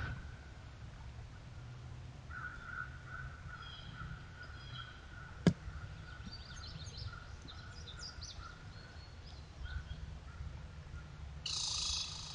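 Woodland birds chirping over a low steady rumble, with one sharp click about halfway through, and a crow starting to caw loudly near the end.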